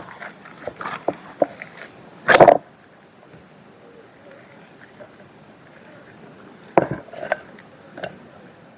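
Steady high insect chirring, with scattered short clicks and knocks over it. The loudest is a brief clatter about two and a half seconds in, with another sharp knock near seven seconds.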